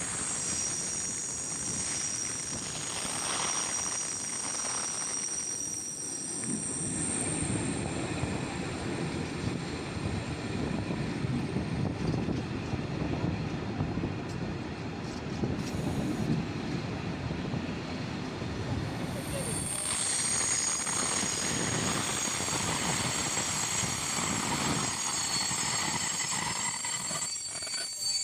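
Passenger train running on the rails, heard from a coach window: a steady rumble of the wheels and coaches, with high-pitched wheel squeal at the start and again from about 20 seconds in.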